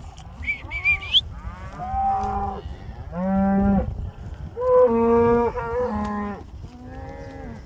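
A herd of cattle mooing, about five long drawn-out moos one after another, some overlapping, with a short high rising call about a second in.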